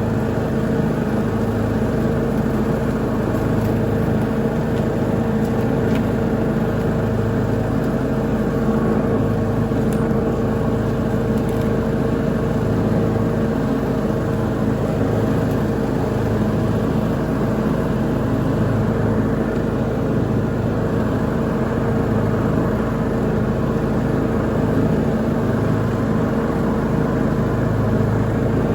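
Lawn mower engine running steadily at full throttle while mowing, its low hum swelling and fading about every two seconds.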